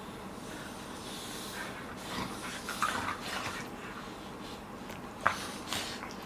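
Golden retriever puppies play-fighting, making short breathy noises: a cluster about two to three seconds in and a sharp one about five seconds in.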